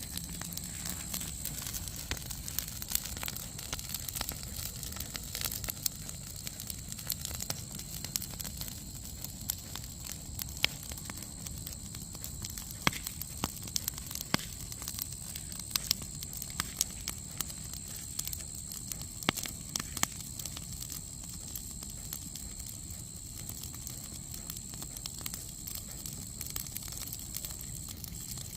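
Campfire burning, with frequent sharp, irregular crackles and pops over a low rumble of the flames. A steady high-pitched whine runs in the background.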